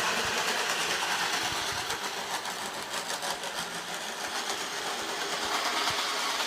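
Model train running along its track: a steady whir from its small electric motor and wheels.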